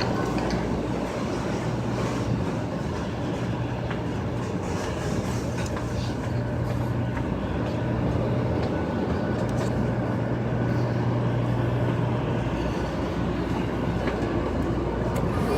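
Shinkansen train at a station platform: steady train and platform noise with a low hum that comes and goes.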